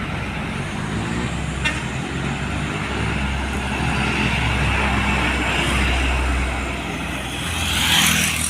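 Heavy diesel trucks running past on a road, a low engine drone with traffic noise that grows louder midway, then a rushing hiss swelling near the end.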